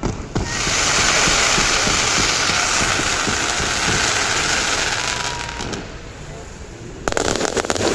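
Fireworks: a dense crackling hiss of burning sparks with scattered pops for about five seconds, then a sudden run of rapid sharp cracks near the end.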